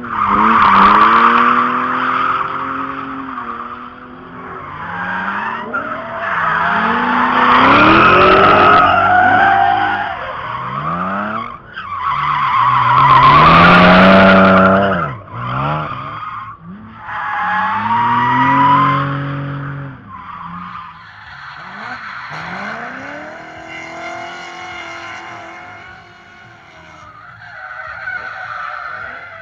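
Drift cars' engines revving hard and dropping back as the tyres squeal through slides, in several separate passes cut one after another. The loudest bursts come about a second in, around eight seconds and around thirteen to fourteen seconds, with a quieter, more distant slide in the last third.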